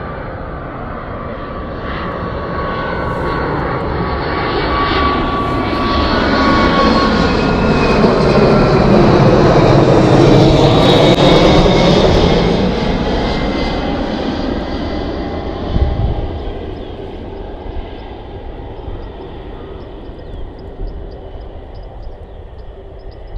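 Airliner's engines passing close by: the sound swells for about ten seconds, peaks, then fades away, its tones sinking in pitch as the plane goes past. A short low bump sounds about two-thirds of the way through.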